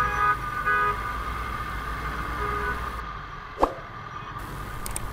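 Vehicle horns honking in road traffic over a steady low rumble of engine and wind: a horn sounds in the first second, a shorter, fainter beep near the middle, and a single sharp click a little later.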